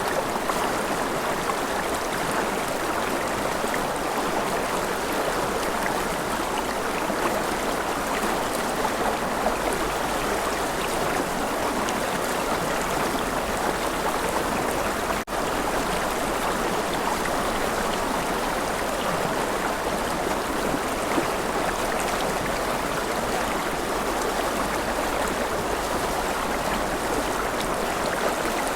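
A forest river flowing, a steady rushing of water. There is a split-second dropout about halfway through.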